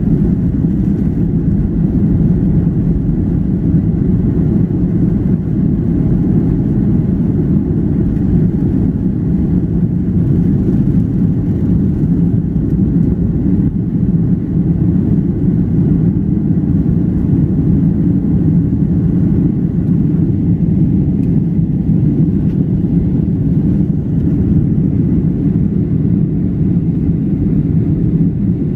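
Steady low drone inside an airplane cabin in flight: engine and airflow noise, unchanging throughout.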